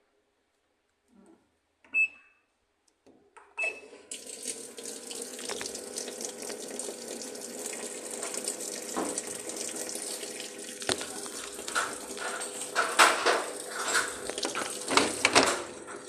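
Two short beeps, as from a washing machine's control panel, then water rushing into the machine from about four seconds in, steady with some louder surges toward the end: the wash starting to fill.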